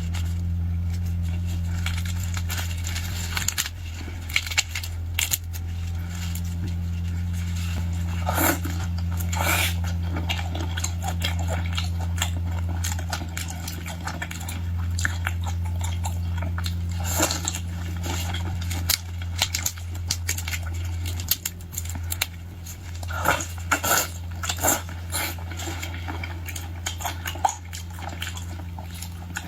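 Close-miked eating sounds: crunching, biting and chewing with many scattered sharp clicks, over a steady low hum.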